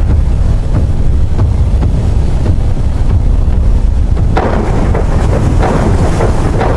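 Storm ambience: a loud, deep, continuous rumble of wind and thunder, joined about four seconds in by a louder rushing noise.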